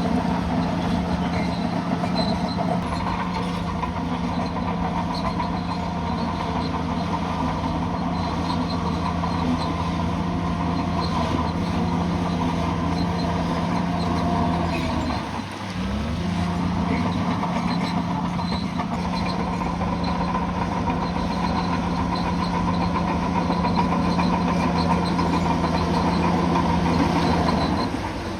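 Bulldozer's diesel engine running steadily under load, dipping briefly about halfway through and then rising again in pitch.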